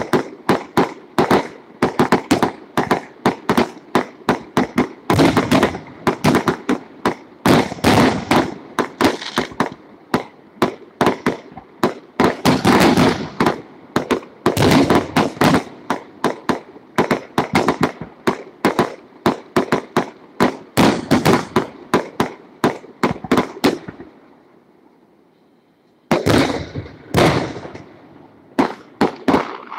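Fireworks going off in a rapid string of sharp cracks and bangs, several a second, with louder clusters. It stops for about two seconds near the end, then starts again.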